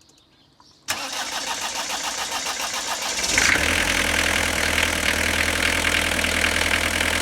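Vauxhall Carlton's diesel engine being started: the starter cranks with an even rhythm for about two and a half seconds, then the engine catches about three and a half seconds in and runs on at a steady idle.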